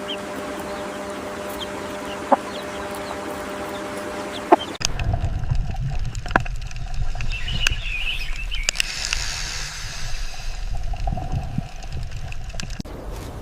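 Domestic fowl clucking over a steady hum; a little under five seconds in the sound changes abruptly to a low rumble with higher calls in the middle.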